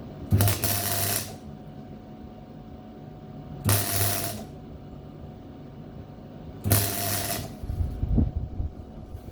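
MIG welder arc crackling in three short bursts of about a second each, each with a low electrical hum, as a plug weld is laid on bare sheet steel; the welder finds it is blowing the hole out even more. A few low thuds follow near the end.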